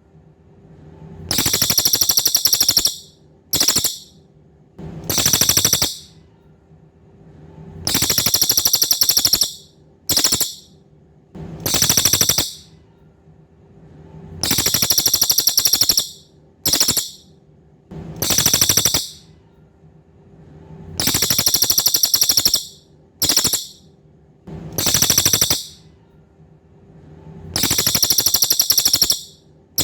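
Cililin songbird calling over and over: loud, high, buzzy trills of rapid pulses, one long, one very short and one medium trill in turn, the pattern coming round about every six and a half seconds.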